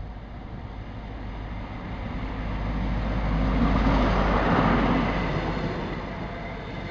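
A First Great Western HST passing close along the platform. The Class 43 diesel power car's engine and wheel noise builds to a peak about four seconds in, then eases to a steady rumble of wheels on rail as the coaches follow.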